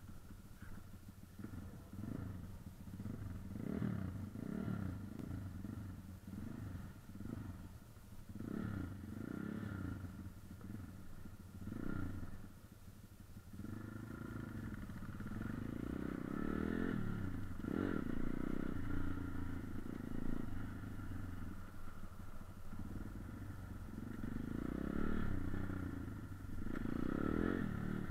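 Motorcycle engines running at low road speed, the revs rising and falling again and again as the bikes pull away. The sound gets louder from about halfway through.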